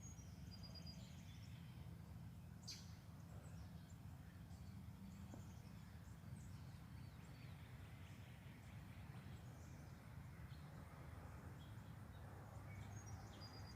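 Faint songbirds chirping and singing here and there over a low, steady background rumble, with one brief click about three seconds in.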